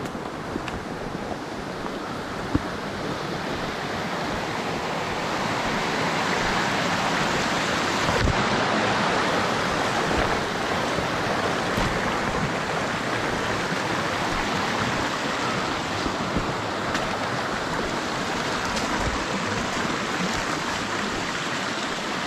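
Steady rushing of flowing water, swelling for a few seconds near the middle and easing again.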